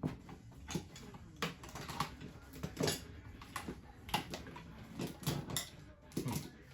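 Hand tools and sockets clattering and clinking as someone rummages through them: an irregular string of sharp knocks and clicks, a dozen or so.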